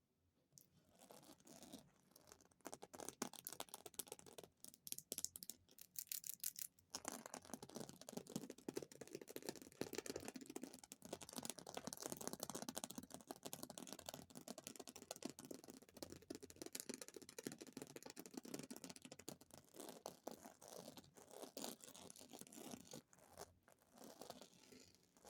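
Fingers tapping extremely fast on an object, a dense run of light, quick taps and scratches. It becomes more continuous and louder about seven seconds in.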